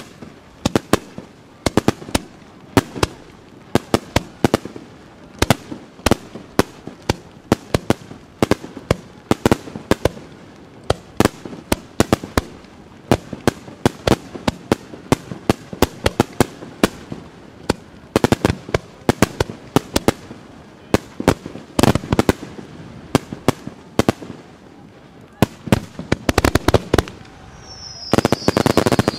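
Japanese aerial firework shells by Ikebun bursting in quick succession: sharp bangs several times a second with a rumbling tail between them. A denser volley comes near the end, with a short falling whistle.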